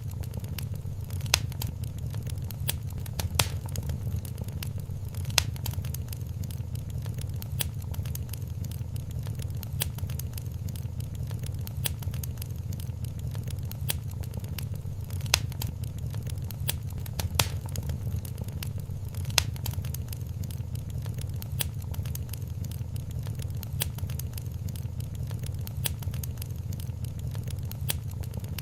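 Wood fire crackling in a fireplace: a steady low rumble of burning with sharp pops and snaps every second or two, a few of them louder.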